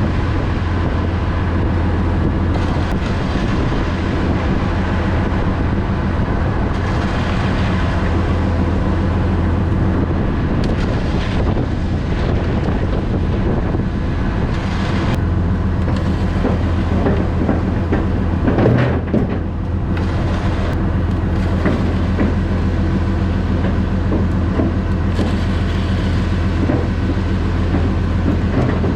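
Concrete mixer truck's diesel engine running steadily with a deep, even hum, with a brief louder noise about two-thirds of the way through.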